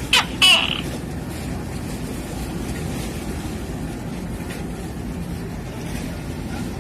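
Steady engine rumble with a faint hum. Two short calls fall in pitch within the first second.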